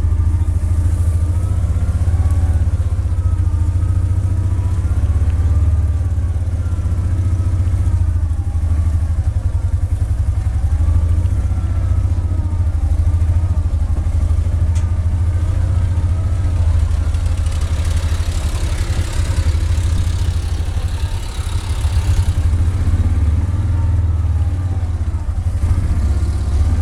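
Small off-road vehicle engine running steadily with a deep hum, its pitch wavering a little. About two-thirds of the way through, a rushing hiss rises over it for several seconds.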